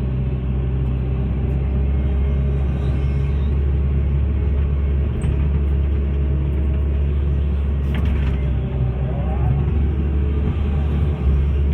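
Hitachi excavator's diesel engine running steadily with a deep, even drone.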